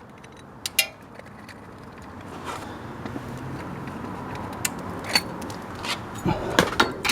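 Scattered metallic clinks and knocks from a scrap fan motor being handled, over a steady noise that grows louder. The knocks come more often toward the end.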